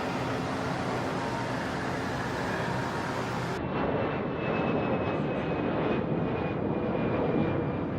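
Aircraft engine running with a steady, dense drone; about three and a half seconds in, the sound suddenly turns duller.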